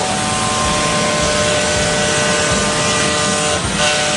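CNC wood router running: a steady machine whine of several tones over a dense noise, with a short break about three and a half seconds in.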